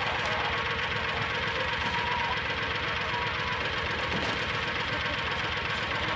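A vehicle engine running steadily with a fast, even low pulsing.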